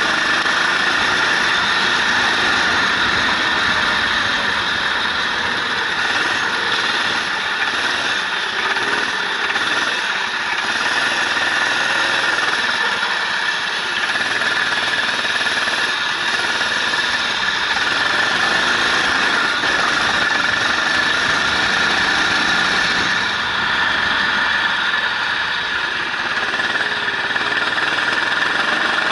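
Onboard sound of a racing vehicle's engine lapping a circuit, its pitch rising and falling with throttle and gear changes, over a steady hiss.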